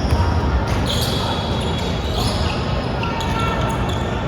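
Live basketball play on an indoor court: the ball bouncing, with many short, high squeaks of sneakers on the court floor.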